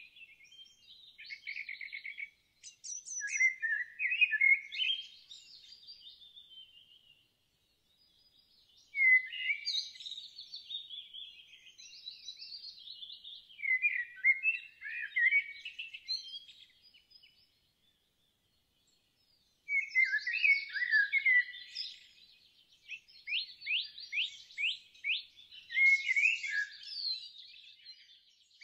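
Songbird song: rapid, varied twittering phrases of a few seconds each, with short pauses between them, around 8 and 18 seconds in.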